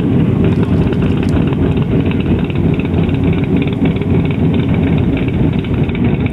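A car engine running steadily as the car drives, without a clear rev change or stop.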